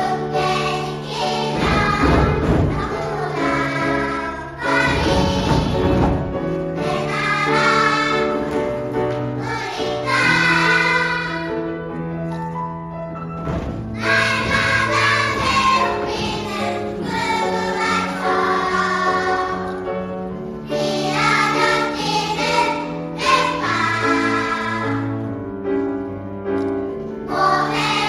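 A choir singing a piece in several parts, in phrases of held notes with short breaks between them.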